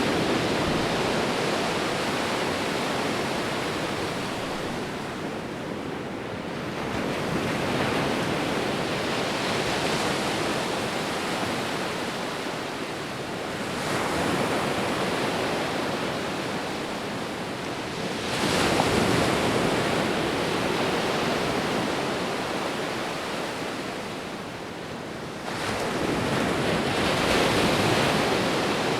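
Ocean surf: waves breaking and washing in, a steady rushing hiss that swells with a new wave about every five to six seconds and then eases off.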